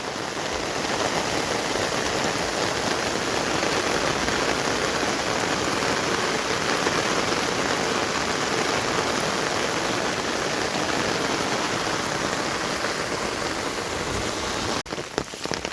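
Heavy rain pouring down steadily as a dense hiss, breaking off abruptly shortly before the end.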